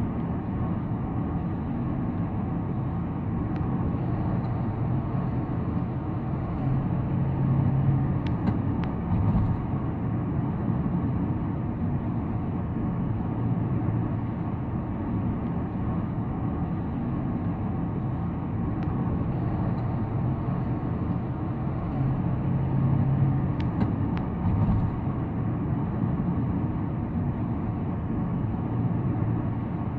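A car driving at steady speed, with the continuous hum of tyres on the road and engine, and a few faint clicks or knocks about a third of the way in and again past two thirds.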